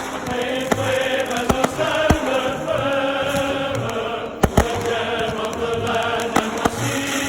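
Recorded choral music playing, with sharp firework bangs going off over it, about eight in all, the loudest a close pair a little past halfway.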